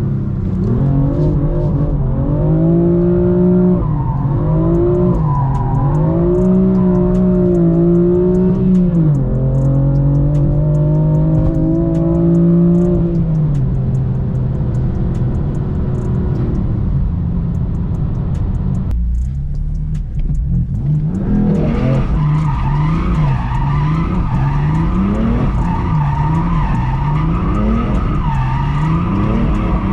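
BMW M4 Competition F82's twin-turbo straight-six pulling hard, its pitch sweeping up and dropping back through gear changes, then running steadier. After a brief break about twenty seconds in, the engine is revved up and down in quick repeated sweeps while the tyres squeal and skid in a drift.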